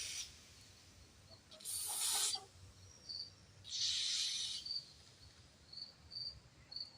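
Two short bursts of aerosol carburetor cleaner sprayed through a small engine carburetor's passages, the first about one and a half seconds in and the second about four seconds in. Faint insect chirps repeat in the background.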